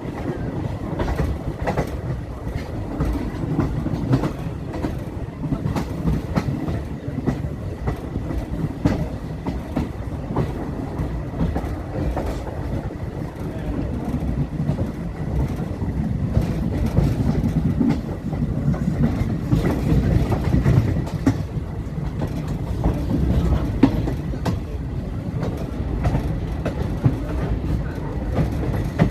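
Indian passenger train running along the track: a steady low rumble of the coaches with irregular clicks and knocks from the wheels on the rails.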